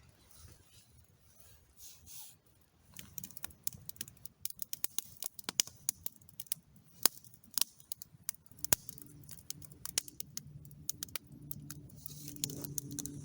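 Campfire of split wood crackling, with sharp irregular pops and snaps that grow more frequent after the first few seconds as the fire takes hold. A low intermittent hum joins in about two-thirds of the way through.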